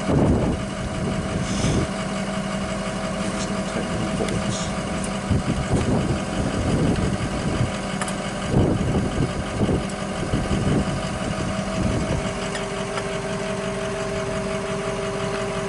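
An engine idling steadily, with irregular knocks and clunks over it.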